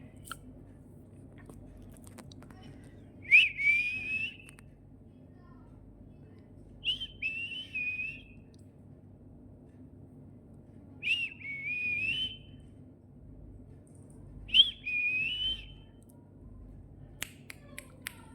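A pet parrot whistling four times, each call about a second long: a sharp opening note, then a wavering whistle that rises. A few faint clicks come near the end.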